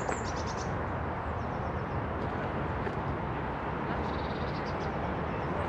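Songbirds singing short, high, rapid descending phrases, one at the start and a trill about four seconds in, over a steady rushing background noise.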